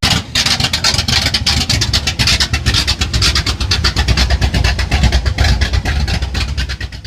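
Car engine running loud with rapid, even exhaust pulses.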